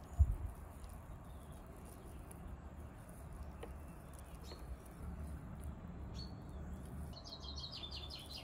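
Small bird chirping a few times, then a quick run of high chirps near the end, over a low steady rumble, with a dull thump just after the start.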